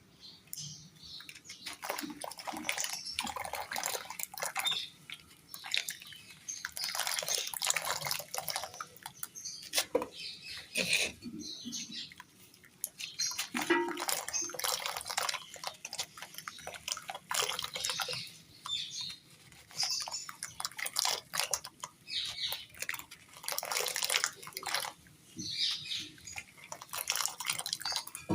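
Crumbly material crunching and crumbling in water, in irregular bursts of wet crackling with short pauses between, with dripping.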